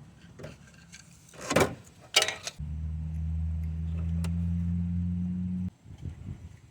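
A couple of metallic clanks, then a small electric motor hums steadily at one even pitch for about three seconds and stops suddenly.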